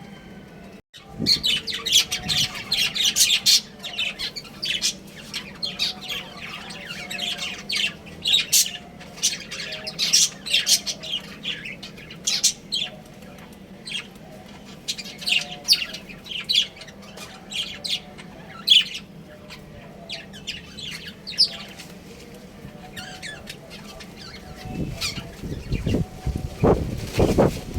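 Budgerigars chirping and chattering: many short, high, rapid calls overlapping. Near the end a louder, lower sound comes in.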